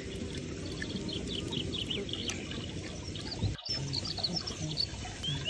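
Small birds chirping in short, high notes over a low background murmur, with a brief break in the sound a little past halfway.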